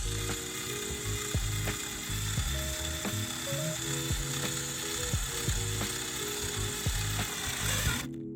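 Power drill boring into clear acrylic tubing: a steady rasping whir that cuts off suddenly near the end.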